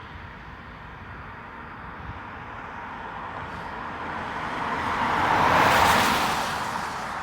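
A car passing close by on the road: a tyre-and-engine rush that grows over a few seconds, peaks about six seconds in, then fades.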